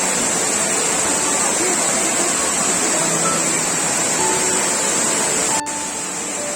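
Waterfall: a steady, dense rush of falling water that cuts off abruptly near the end, where the sound drops to a quieter level.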